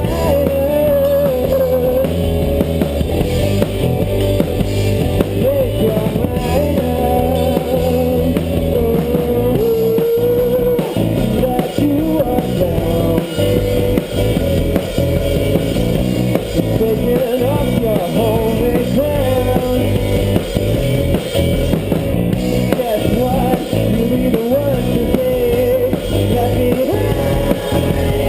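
Rock band playing live: drum kit and guitar, loud and steady, with a melodic line wavering in pitch over the band.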